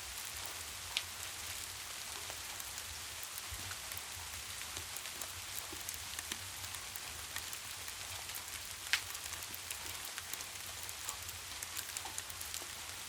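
Steady rain falling, a soft even hiss with scattered small ticks. Two sharper pops stand out, about a second in and again about nine seconds in, like the crackle of a log fire.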